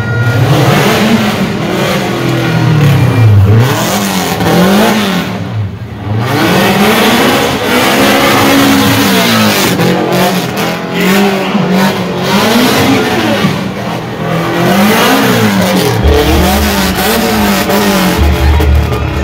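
A car engine revved hard over and over, its pitch climbing and dropping about once a second, over a loud, constant rushing noise.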